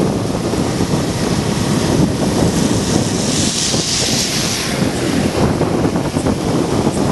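Wind buffeting the microphone: a loud, irregular rumble, with a brief brighter hiss about three to four seconds in.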